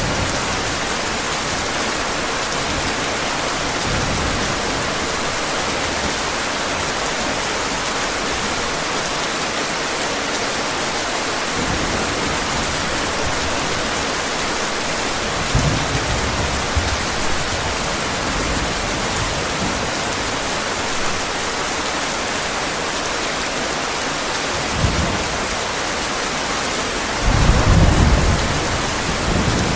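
Steady heavy rain hissing, with low rumbles of thunder rolling in several times, the loudest near the end.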